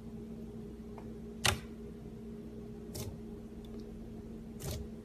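Slime being pressed and played with, giving three sharp pops about a second and a half apart, the first the loudest, over a steady low hum.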